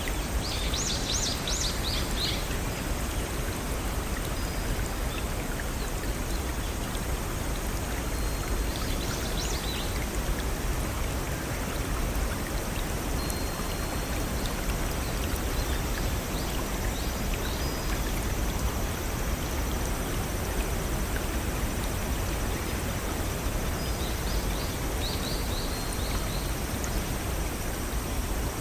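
Small stream and waterfalls rushing steadily over rocks. Birds chirp in short, quick high-pitched runs, four times over the stretch.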